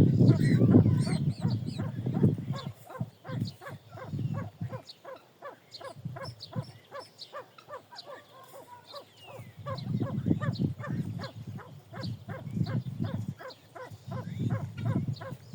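Pheasants in a pen: a fast, even run of short clicking sounds, about five a second, with low rumbling bursts at the start and again in the last third.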